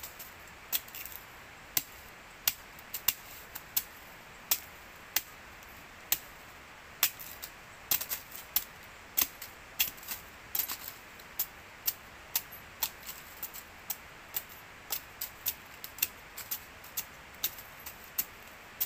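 A run of sharp, light taps at an uneven pace, about two a second, over a faint steady hiss.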